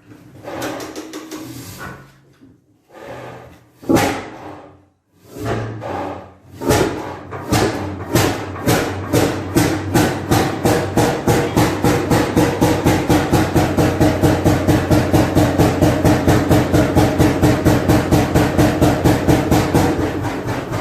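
35 hp hot-bulb oil engine starting from cold. A few irregular puffs and a sharp bang about four seconds in, then it catches and settles into a steady rhythmic knock that speeds up from about one beat a second to three or four.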